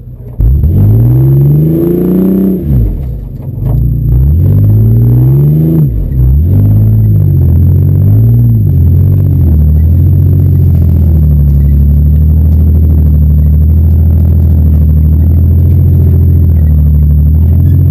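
Car engine revving hard. It surges up and down in pitch several times in the first half, then holds a steady high-revving drone.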